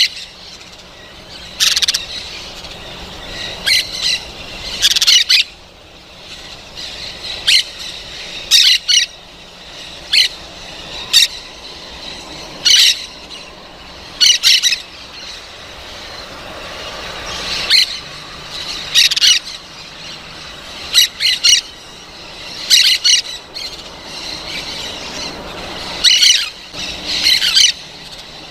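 Parrot giving short, high-pitched calls, singly or in quick clusters of two or three, every second or two.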